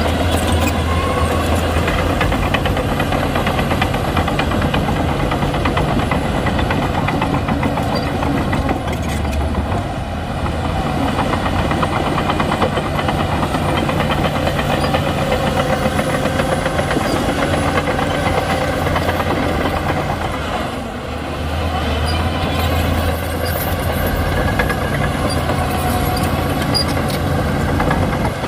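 Shantui crawler bulldozer's diesel engine running under load, with a steady rattle of the steel tracks. The engine note eases briefly twice, about a third and about three-quarters of the way through, then picks up again.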